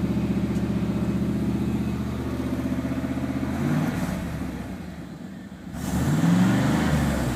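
1995 Chevy Tahoe's 5.7-litre 350 V8 idling through a Thrush muffler, then revved twice, the pitch rising and falling each time. The second rev, about six seconds in, is the louder one.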